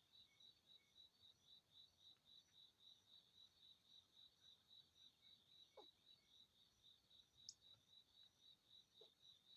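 Faint, even chirping of a cricket, about three to four high pulses a second, with one brief sharp higher chirp about three quarters of the way through.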